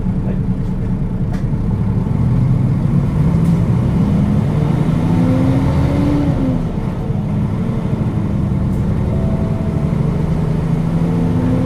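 A Nissan Diesel KL-UA452KAN city bus's diesel engine heard from inside the cabin while driving. The engine climbs in revs for a couple of seconds and drops back abruptly about six seconds in, as at a gear change, then runs steadily under load.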